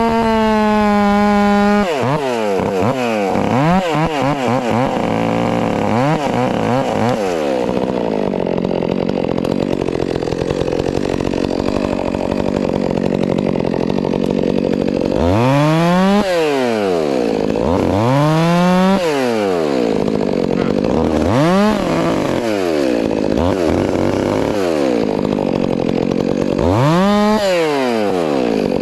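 Stihl MS 400 C two-stroke chainsaw running hard. It is revved to full throttle at the start, then blipped up and down several times, settles to a steadier, lower run in the middle, and is throttled up and back down again several times near the end.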